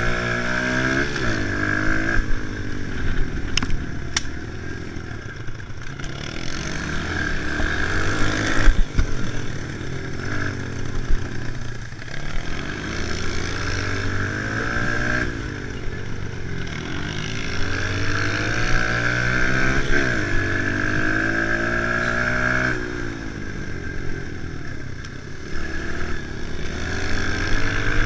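Kawasaki KLX110 pit bike's small single-cylinder four-stroke engine being ridden hard. It revs up and eases off over and over, the pitch climbing with each pull of the throttle and dropping between. There are a couple of sharp knocks about four seconds in.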